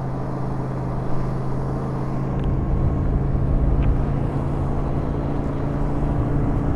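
Yamaha SRV250 motorcycle's V-twin engine running steadily at cruising speed, with wind and road rumble underneath, muffled by a recorder tucked inside the rider's clothing.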